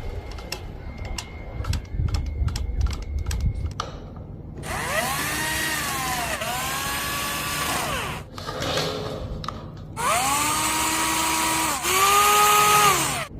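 Clicks and knocks of parts being handled, then a power drill or driver whining in two runs of a few seconds each, its pitch dipping and recovering as it takes load.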